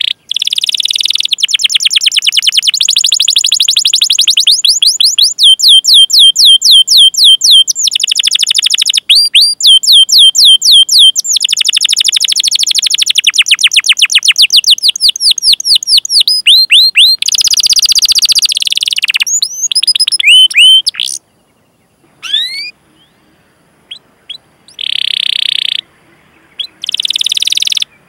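Canary singing long rolling trills of fast, rapidly repeated sweeping notes, phrase after phrase. After about twenty seconds the song breaks off into a few sparse chirps and short harsh bursts.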